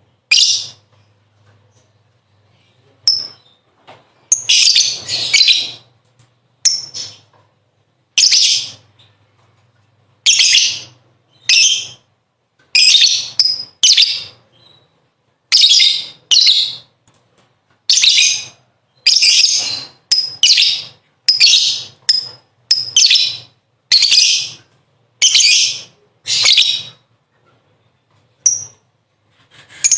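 Lovebird chattering its shrill 'ngekek' song in about twenty short bursts, each under a second apart from one longer run, with the bursts coming faster in the second half.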